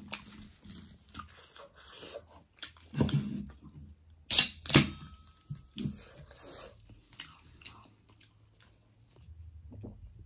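Close-up mouth sounds of a person chewing and eating a large, juicy pork momo: irregular wet smacks and clicks, with two louder sharp ones a little before halfway.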